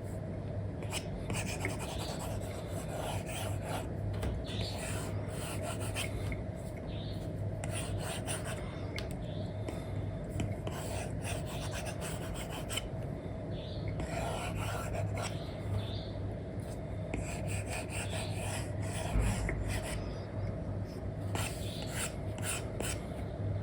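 Apple Pencil with an Elecom nib rubbing and scratching across a matte paper-like screen protector on an iPad, in many quick, irregular strokes. A steady low hum runs underneath.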